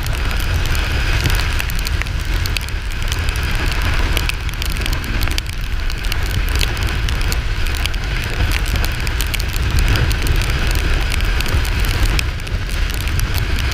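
Wind rumbling heavily on the microphone of a Kawasaki Ninja 400 under way, with scattered crackling ticks throughout.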